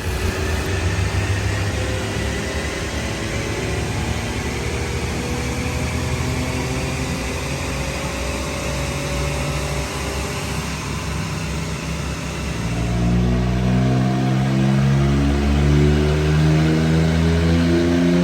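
Volkswagen Up MPI's three-cylinder engine pulling through a long, steady rev climb on a chassis dynamometer, its pitch rising slowly and evenly. About two-thirds of the way through it gets louder and fuller as the revs climb higher.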